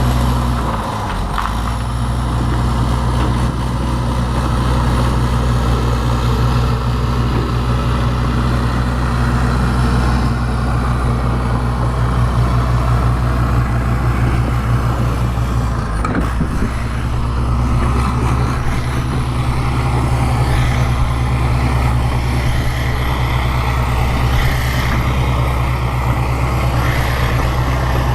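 Bulldozer's diesel engine running steadily, with a short break in the sound about a second in and again around sixteen seconds.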